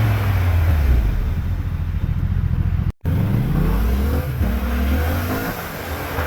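Yamaha MT-07's parallel-twin engine through a LeoVince underbody exhaust, its note falling as the bike slows off the throttle. After a brief dropout in the sound about halfway, the note rises again in two steps, as through a gearchange, then settles.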